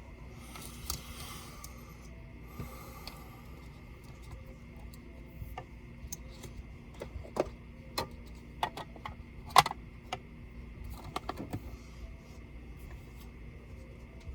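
Small hard parts of a Dell Vostro 13 5310 laptop being handled: a little rustling near the start, then a run of scattered sharp clicks and taps, the loudest about nine and a half seconds in.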